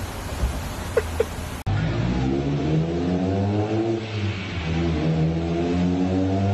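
Mitsubishi Lancer Evolution's turbocharged four-cylinder engine pulling hard on a chassis dyno: the note climbs in pitch, drops back at each gear change twice, and climbs again. Before it, for the first second and a half, there is a low steady hum with two short high chirps.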